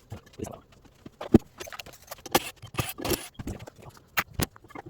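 Irregular clicks, knocks and scrapes of tools and parts being handled while a washing machine is taken apart, with one sharp knock about a second and a half in.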